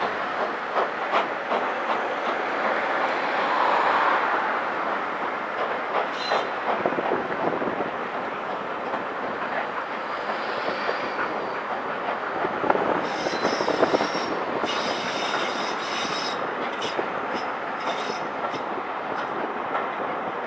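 Passenger coaches of a train rolling slowly past, their wheels clicking over rail joints and pointwork with a steady rumble. In the second half the wheels squeal briefly several times.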